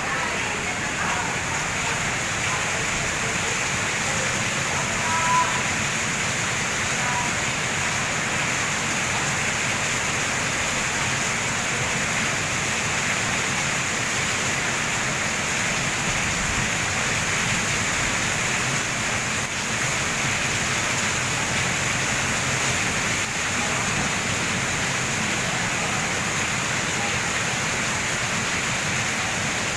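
Steady heavy rain falling, an even continuous hiss.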